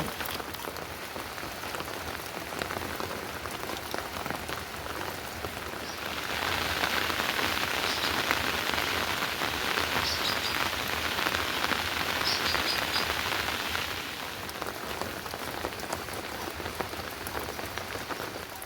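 Heavy monsoon rain falling on surfaces: a dense, steady patter of drops. It grows louder about six seconds in and eases again about eight seconds later.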